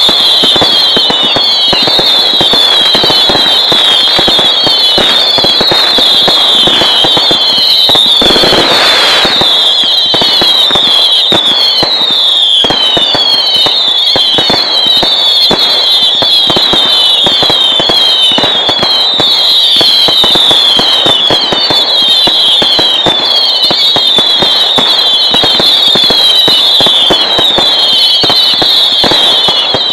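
Fireworks display going off continuously: dense crackling and banging, with a louder blast about eight seconds in, over many overlapping high whistles that keep falling in pitch.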